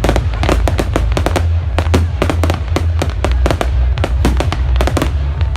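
Fireworks going off in a rapid, irregular run of bangs and crackles, several a second, over a steady low rumble.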